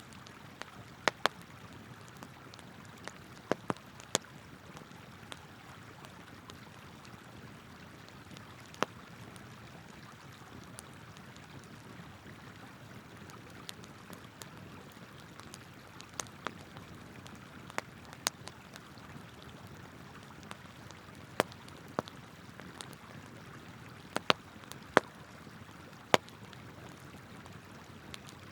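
Wood campfire crackling, with sharp irregular pops, some in quick clusters, over the steady rush of a flowing river. The pops are the loudest sounds.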